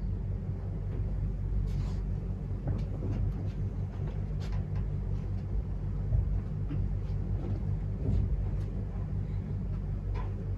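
A steady low rumble and hum, with a few faint clicks and knocks.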